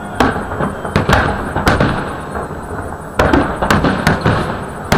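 Aerial fireworks shells bursting in a salute: sharp bangs with long rumbling echoes, three in the first two seconds, a short lull, then a quicker run of bangs from about three seconds in.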